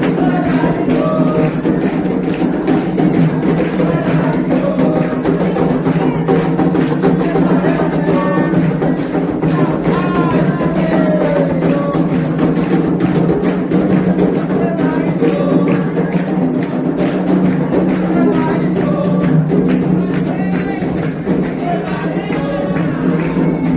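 Candomblé ritual music: atabaque hand drums and a metal agogô bell keep a steady rhythm while voices sing a chant over them.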